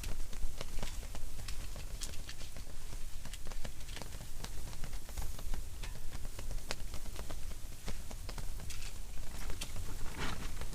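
Strong wind buffeting an ice-fishing tent: a steady low rumble with irregular ticks and taps, a few a second.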